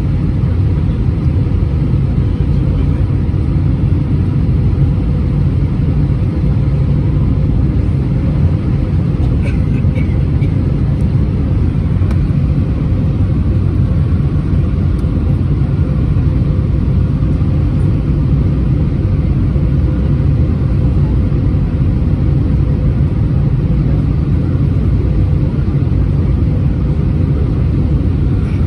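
Airbus A320-231 airliner cabin noise: a steady low rumble of engines and airflow with a faint steady hum, unchanging throughout, and a few faint clicks about ten seconds in.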